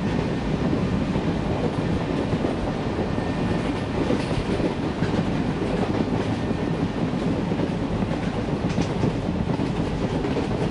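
Passenger train running past, a steady rumble of its wheels and coaches on the rails.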